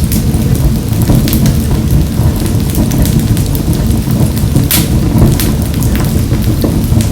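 Wood fire burning in a wood-burning stove: a steady low roar with sharp crackles and pops scattered irregularly throughout, one louder pop a little past halfway.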